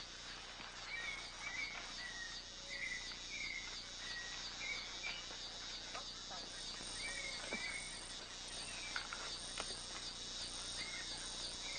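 Tropical rainforest ambience: a steady chorus of insects with a fast, even pulsing, and short chirping calls repeated every second or so.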